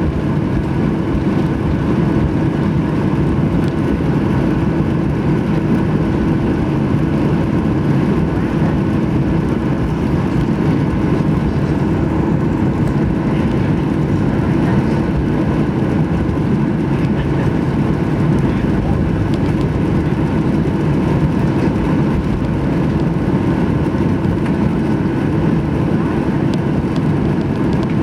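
Steady drone of a Boeing 737-800's twin CFM56 turbofan engines heard from inside the cabin: a constant rumble with a steady whine, holding the same pitch and level throughout.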